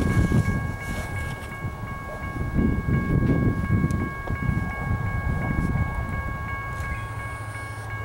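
An approaching freight train still out of sight: an uneven low rumble that settles into a steady low drone near the end. Over it, a steady high ringing of three tones.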